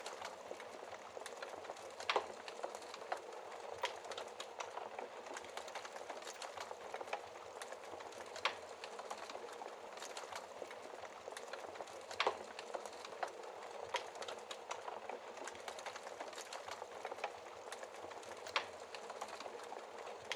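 Wood fire crackling in a fireplace: a steady hiss of burning logs with irregular small pops and a few sharper snaps, the loudest about 2, 8 and 12 seconds in and near the end.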